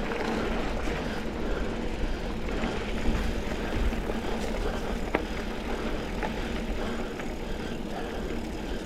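Mountain bike rolling along a dirt double-track trail: steady tyre and drivetrain noise with wind rumbling on the microphone, and a few sharp clicks and rattles from the bike, the plainest about five seconds in.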